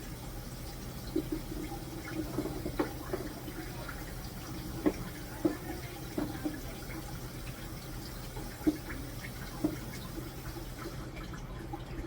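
Water running from a tap into a sink, with scattered clinks and knocks of items being handled in it.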